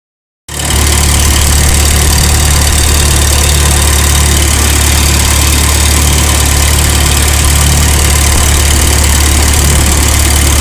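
Vintage tractor engine running steadily and loud, with a strong low drone. It cuts in suddenly about half a second in, after dead silence.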